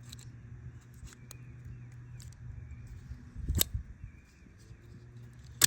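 Microtech Combat Troodon out-the-front knife firing and retracting: two sharp snaps of the blade about two seconds apart, with a few faint clicks of the slider before them. The action, freshly lubricated with WD-40 after weeks outdoors, is cycling freely.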